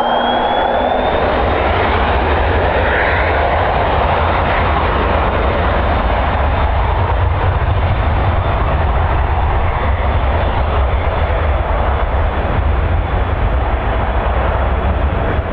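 Jet airliner engines running loud and steady, with a thin whine that rises in pitch over the first second or so and then holds. Strong wind buffeting on the microphone adds a heavy low rumble.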